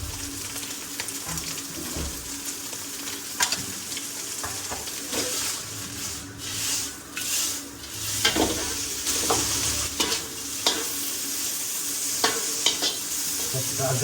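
Buffalo brain fry sizzling in a hot pan as it is stirred, with the utensil clicking and scraping against the pan now and then.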